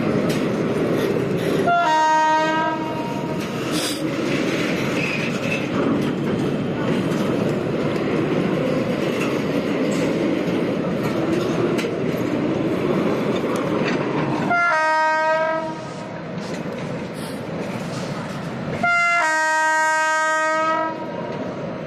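Freight train of oil tank wagons rolling past, with a steady noise of wheels running on the rails. A train horn sounds three times: a short blast about two seconds in, another about two-thirds of the way through, and a longer blast near the end.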